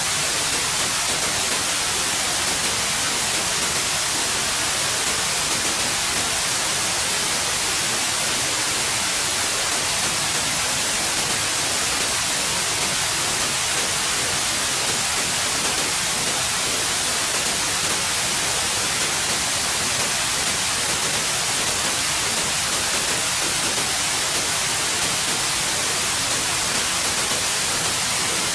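Steady, unchanging white noise: an even hiss, brightest in the high end, with no breaks or events.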